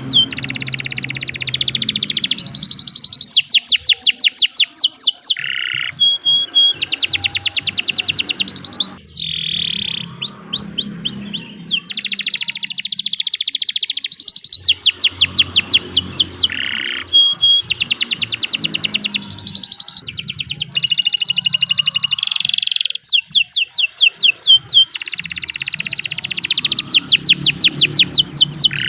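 Domestic canary singing a long, continuous song made of fast rolling trills, each a rapid run of repeated notes, switching from one phrase to the next with only brief breaks.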